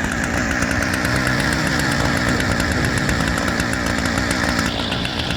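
An engine running steadily with a rapid, even firing pulse, its tone shifting slightly near the end.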